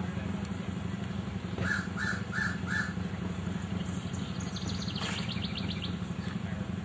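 A crow cawing four times in quick, even succession, over a steady low hum.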